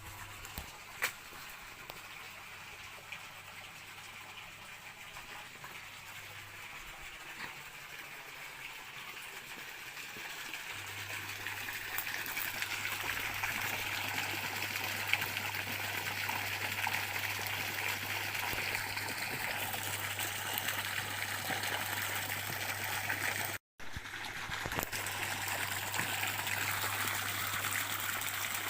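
Water flowing in a stream, a steady rushing that grows louder about halfway through. The sound drops out completely for an instant near the end.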